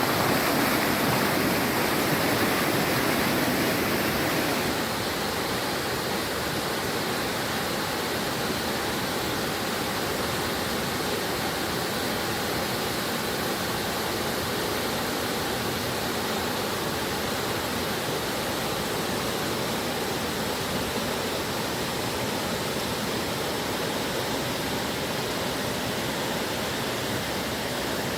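Waterfall water rushing in a steady, even roar of noise, a little quieter after about four and a half seconds.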